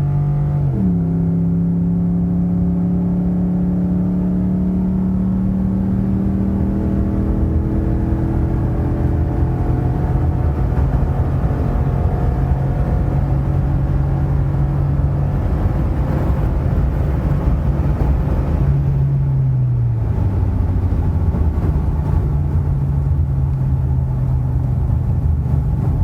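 2015 Ford F-150's 5.0 V8 running through a WWP aftermarket dual exhaust while the truck is driven. The engine note drops sharply in pitch about a second in, then climbs slowly and steadily, and drops again about twenty seconds in.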